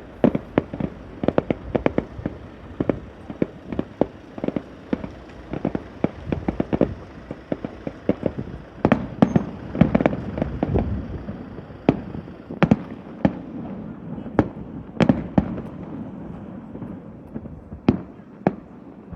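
Aerial fireworks bursting: a fast, irregular string of sharp bangs over a continuous rumble, heaviest through the middle and thinning out to a few single bangs near the end.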